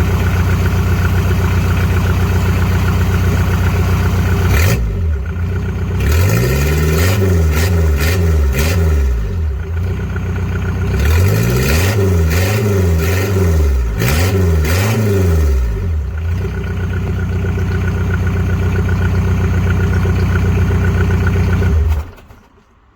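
Diesel engine of a Mk3 VW Golf running with no exhaust fitted at all, the pipe disconnected at the manifold end. It idles, is revved up and down several times in two spells, idles again, then is switched off about a second before the end.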